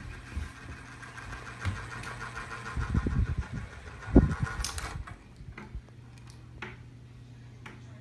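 Small 12 V DC mini ceiling fan running with a whirring whine over a steady low hum, with two loud low thumps near the middle; the whine stops about five seconds in.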